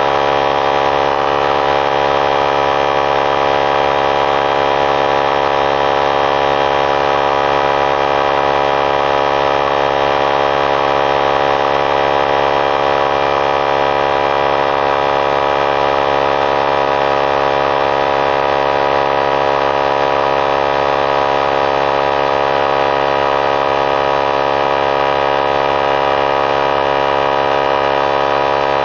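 3-gallon pancake oilless air compressor running continuously as it pumps up its tank, a loud, steady machine hum with many even tones and no change in pitch.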